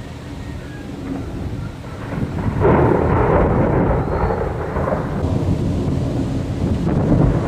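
Thunder: a low rumble builds about two seconds in and breaks suddenly into a loud crackling peal that lasts a few seconds, then rolls on as a low rumble.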